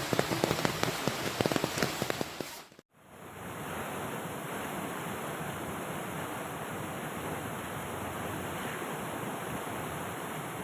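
Heavy rain with many sharp drops hitting a surface. It cuts out abruptly about three seconds in and gives way to a steady, even hiss of downpour with no separate drops.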